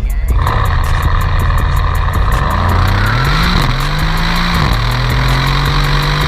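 A car engine running, its pitch climbing about halfway through, dipping, then holding steady at a higher note, with a steady high-pitched whine over it.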